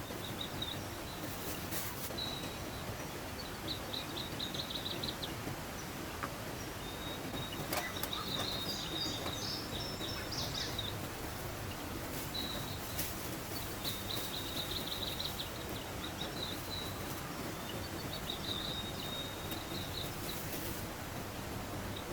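Steady rush of a mountain stream with birds chirping in short, rapid trills that come every few seconds, and a few light clicks.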